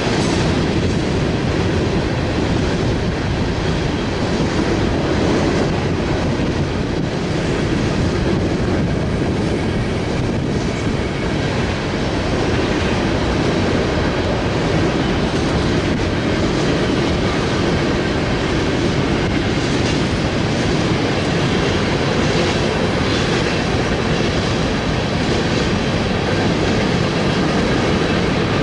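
Freight train rolling past, its cars clattering steadily over the rails.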